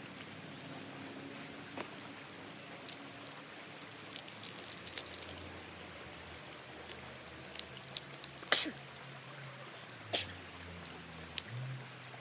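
Scattered light clicks and rattles, with a quick cluster about four seconds in and a few sharper ones around eight seconds, over a faint low steady hum.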